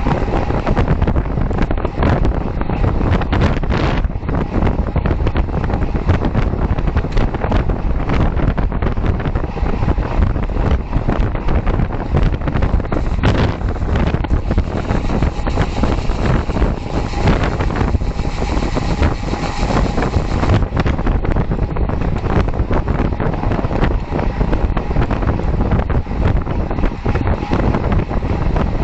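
Heavy wind buffeting on the microphone of a camera riding along at speed, a steady rumbling rush with a stretch of added hiss around the middle.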